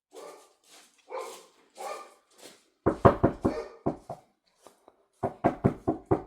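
A dog barking: a few fainter barks, then two loud runs of quick barks, about three seconds in and again near the end.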